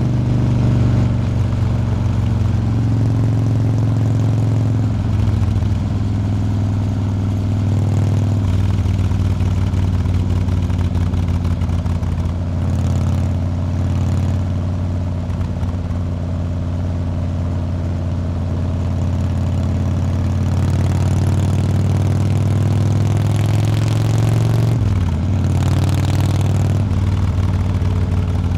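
Motorcycle engine running steadily at road speed, its pitch shifting a few times as speed changes, with a brief dip and recovery about 25 seconds in.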